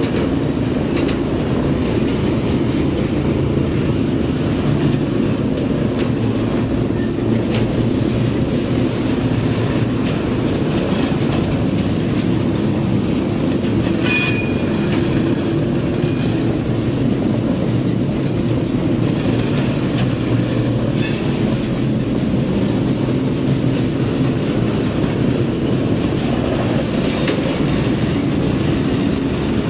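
Freight train's covered hopper cars rolling past: a steady rumble of steel wheels on the rails. About halfway through there is a brief high metallic squeal with a few clanks.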